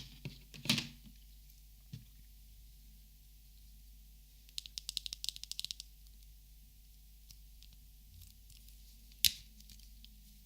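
Small clicks and taps from Copic markers being handled: a knock under a second in, a quick run of light tapping around the middle, and one sharp click near the end.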